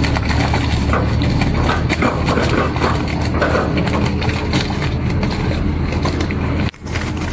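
Heavy vehicle engine running steadily, with a brief drop-out near the end.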